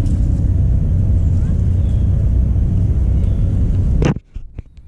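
Engine running with a steady low rumble that cuts off suddenly about four seconds in, followed by a few faint clicks.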